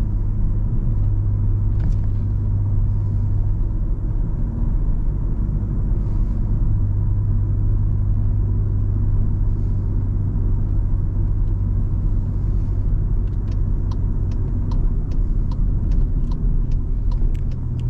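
Car driving at a steady speed: a low rumble of engine and road noise. Near the end a regular ticking starts, about three ticks a second.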